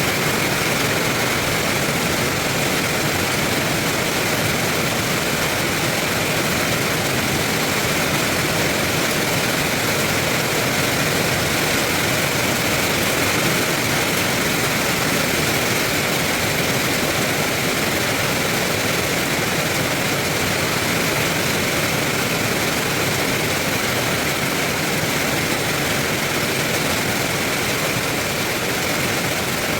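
Heavy rain falling steadily, a dense, unbroken wash of noise.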